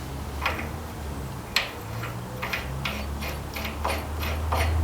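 A series of sharp clicks, two spaced apart at first, then quickening to about four a second, over a steady low hum.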